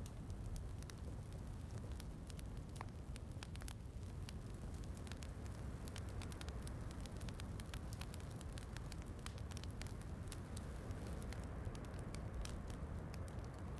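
Wood fire crackling, with frequent small sharp pops scattered irregularly, over a steady low rushing of rain.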